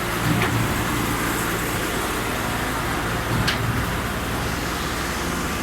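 Diesel engine of a mobile concrete pump running steadily with a low hum, with two short knocks about three seconds apart.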